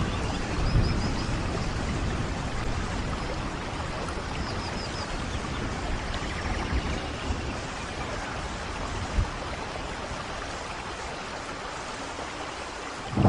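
Steady rain falling, an even hiss of water. Two faint runs of short, high chirps sound through it, once near the start and again about four seconds in.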